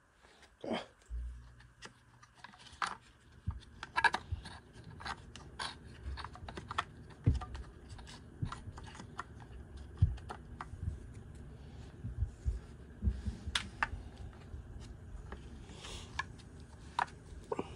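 Irregular clicks, taps and light knocks of hand-held plastic and metal parts being handled and fitted, from a string trimmer's recoil starter being reassembled. A faint low hum sits underneath from about a second in.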